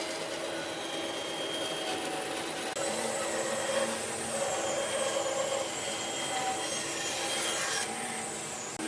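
A hand or power tool working wood, with a steady sawing or rubbing noise. A high, wavering whine joins it about three seconds in, and the sound changes abruptly shortly before the end.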